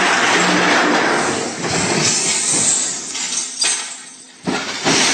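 A truck crash: a loud, long stretch of crashing and breaking noise with glass and metal clinking, which fades after about three seconds. Then come two sharp knocks and a fresh burst of crashing near the end.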